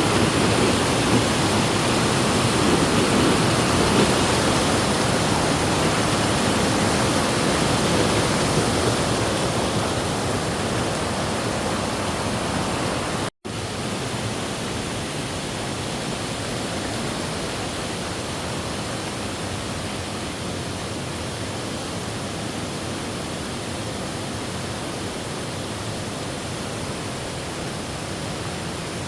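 Rushing water from a waterfall, a steady roar. It breaks off for an instant near the middle, then goes on slightly quieter.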